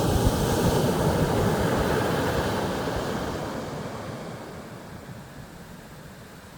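Ocean surf: a wave breaking and washing up the beach, loudest in the first three seconds, then fading away.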